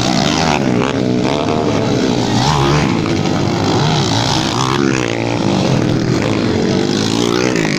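Several motocross dirt bikes racing, their engines revving up and down in overlapping, constantly shifting pitches.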